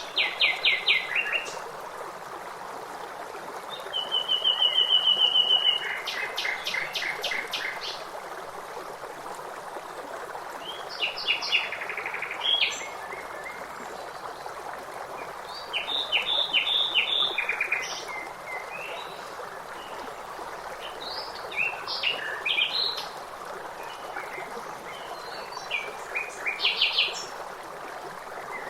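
Songbirds calling over a steadily running stream: short phrases of rapid repeated chirps come every few seconds, with a fast, even trill about four seconds in.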